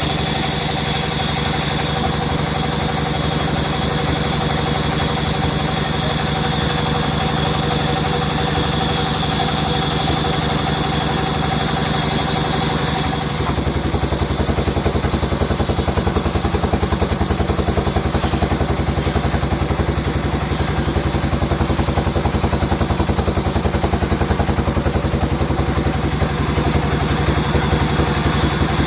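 Sawmill machinery running steadily with an engine-like drone and a fast, even pulse. About halfway through the sound shifts and becomes slightly louder and more throbbing.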